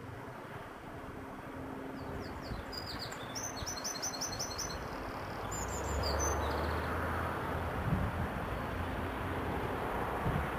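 A small bird chirping in two quick runs of short, high notes, over the rising rumble of an approaching train that swells about halfway through.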